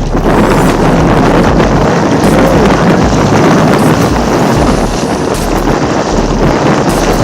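Strong wind buffeting the microphone while a small sailboat is under way, with water rushing past underneath; a steady, loud noise heaviest in the low range.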